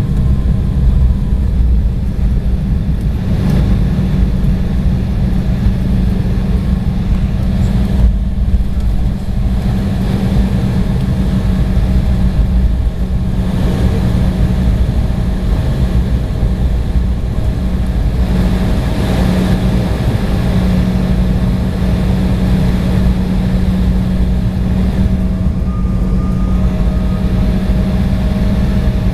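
Cabin noise inside an Embraer E175 airliner: the steady low rumble of its GE CF34 turbofan engines and airflow, with a steady hum and a faint higher tone over it.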